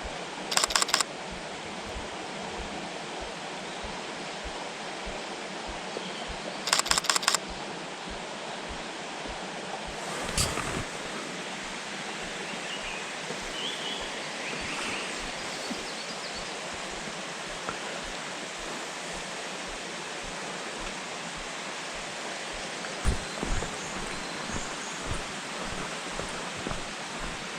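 Camera shutter firing in continuous bursts, two quick volleys of rapid clicks, one right at the start and one about seven seconds in, over a steady rushing background like a stream. Faint short bird calls come through midway.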